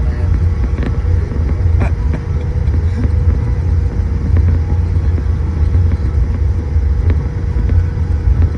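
Cabin noise inside a Boeing 787-8 on the ground after landing: a steady low rumble with a constant hum above it and a few faint clicks.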